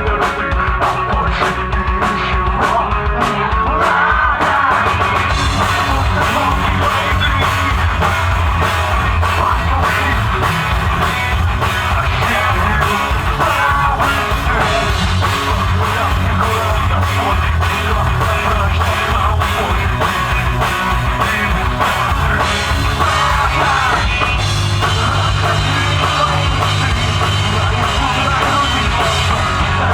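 Alternative rock band playing live, the drum kit keeping a steady beat under the band, with singing.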